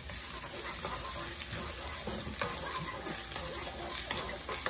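Minced garlic and ginger sizzling in hot oil in a wok, stirred with a wooden spatula, with small scrapes and taps of the spatula on the pan.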